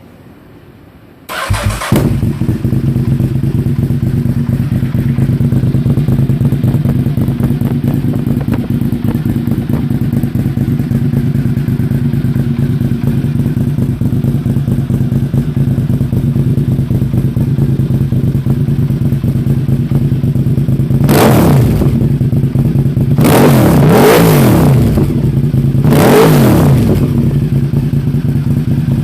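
2005 Honda RC51's 90-degree V-twin engine, breathing through a GPR aftermarket exhaust, firing up about a second in and settling into a steady idle, then revved up and back down three times near the end.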